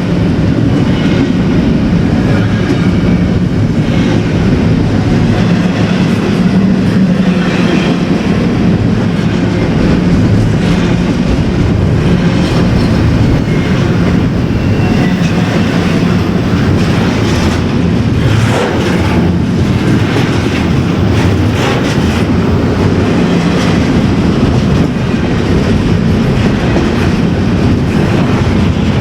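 Freight train cars rolling past, with a steady rumble and irregular clicking and clacking of the wheels over the track.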